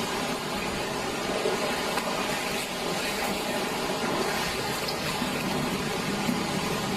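Fast-flowing floodwater rushing, a steady rushing noise.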